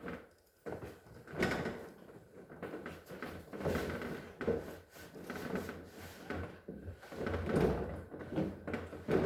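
Irregular knocks, scrapes and rattles of refrigerator parts being handled and slid into place, like a fridge drawer or tray going in.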